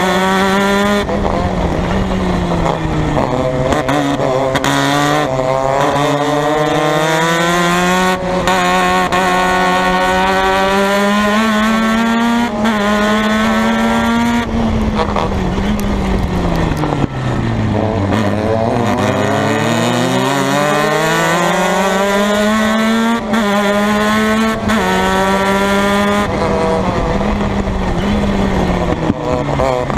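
Formula Mazda race car's rotary engine running hard under racing load, its pitch climbing and falling with throttle and gear changes. About halfway through the revs drop to their lowest as the car slows for a corner, then climb again.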